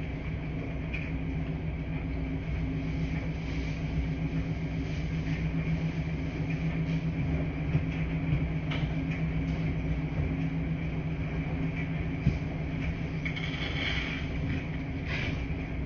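Washing machines running with a steady low hum and rumble, with a couple of small clicks and brief swishing noises near the end.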